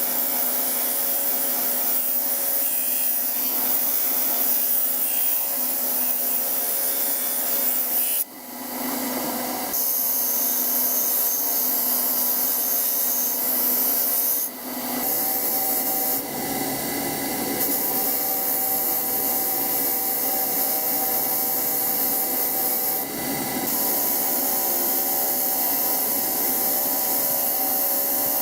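An abrasive power tool running steadily against the planer's parts, a continuous rubbing, rasping noise over a motor hum. It breaks off briefly about 8 and 14 seconds in and dips again near 23 seconds.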